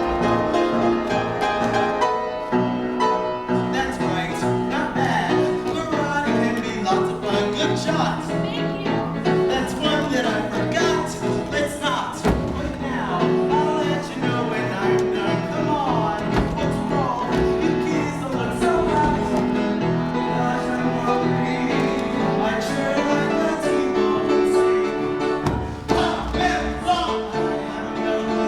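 A musical-theatre song sung over instrumental accompaniment, the music running on without a break.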